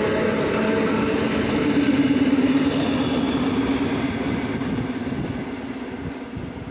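ER9M electric multiple unit running past, its wheels rumbling on the rails under a low hum. The last car goes by about two seconds in, and the sound then fades as the train pulls away.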